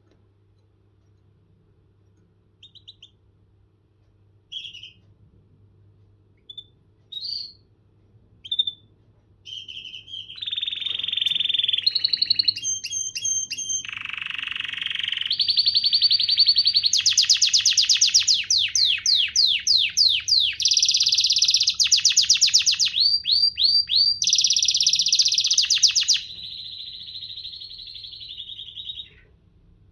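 Canary singing: a few short scattered chirps, then from about ten seconds in a long, continuous song of rapid trills and rolls. The song is loudest in the middle and ends on a softer, steadier phrase shortly before the end.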